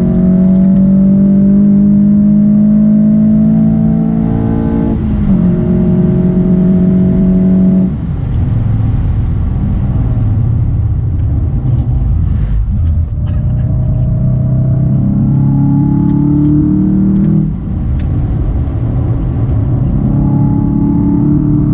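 Golf VII GTI Performance's turbocharged 2.0-litre four-cylinder engine under hard acceleration on a race circuit, heard from inside the cabin. The engine note climbs in pitch through the gears, with breaks at gear changes about five, eight and seventeen seconds in, and a rougher stretch between about eight and thirteen seconds before it pulls up again.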